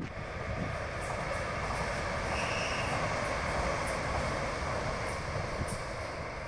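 Orange-and-white commuter train passing along the coastal line, a steady rush of wheels on rail that swells toward the middle and eases off near the end. A faint brief whine comes about two and a half seconds in.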